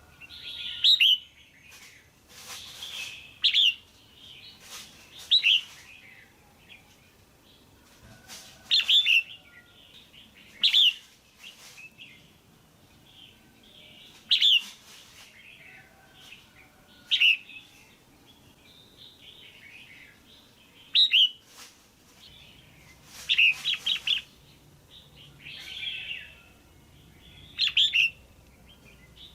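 Female red-whiskered bulbul calling: short, loud chirps repeated every two to three seconds, with a quick cluster of three notes near the end. These are calls of the kind used to stir up male bulbuls.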